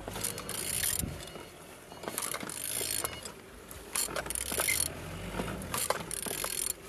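A used engine being turned over by hand with a ratchet wrench on the crankshaft: several strokes of ratchet clicking, roughly one a second, as the engine's internals rotate. It turns freely, a sign the engine is not seized.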